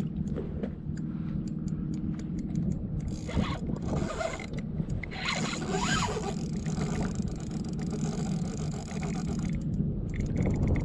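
Fishing reel working under load in a fight with a hard-pulling false albacore, a zipping, scraping mechanical sound in several stretches over a steady low rumble.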